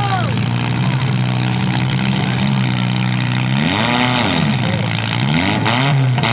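Compact car engines running at a demolition derby, one revving up and back down twice in the second half.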